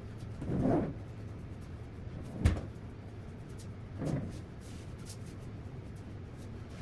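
Household handling noises at double speed: a dull thud about half a second in, a sharp knock about two and a half seconds in, and a softer thud about four seconds in, over a steady low hum.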